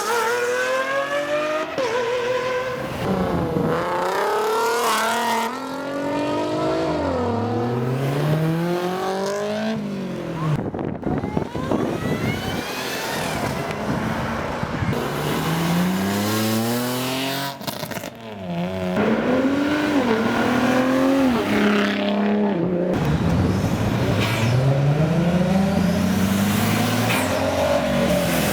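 Cars accelerating hard one after another, their engines revving up and dropping back at each gear change, again and again.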